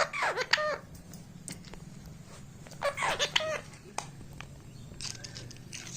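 Rose-ringed (ringneck) parakeet chattering in short, high, babbling bursts, once at the start and again about three seconds in, with a few faint clicks in between.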